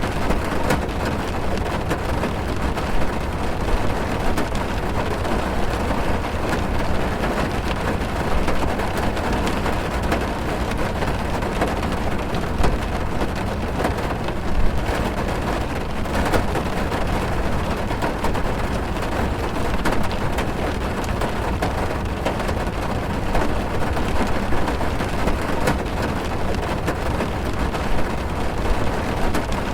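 Steady heavy rain drumming on a car's roof and windows, heard from inside the car: a dense, even patter with a deep rumble beneath it.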